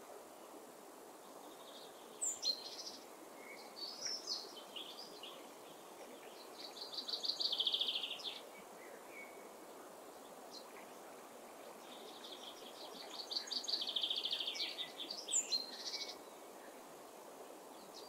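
Birds calling over a steady background hiss: scattered short high notes and two longer bouts of fast repeated notes, the second starting about five seconds after the first ends.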